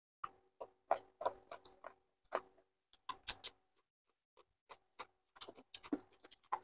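Eating sounds of chicken feet being chewed: an irregular run of short smacks and clicks, several a second, with brief pauses between.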